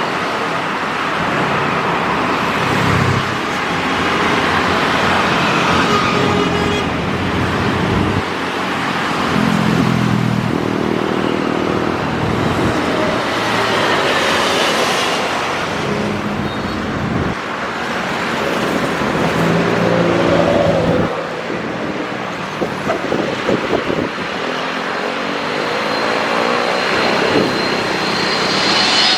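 Busy road traffic, with cars and other vehicles passing one after another, their engines swelling and fading. A high steady whine comes in near the end.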